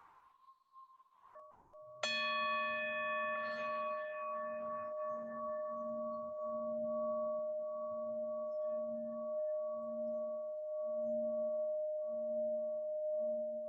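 A sound bowl is struck once, about two seconds in, after a near-quiet start with a few light touches. Its bright overtones fade over a few seconds, and it goes on ringing with one steady tone that wavers slowly, about once a second.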